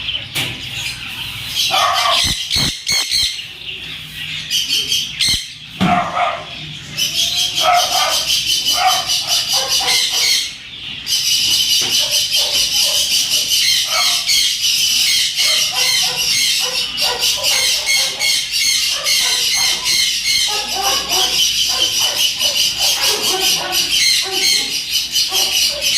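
Many small caged birds chirping and twittering at once, a dense, continuous high-pitched chatter that thickens after the first few seconds.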